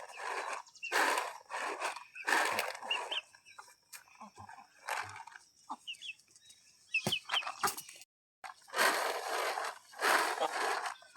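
Rhythmic rasping strokes, about one a second, that pause for several seconds in the middle. A few short high chirps sound during the pause.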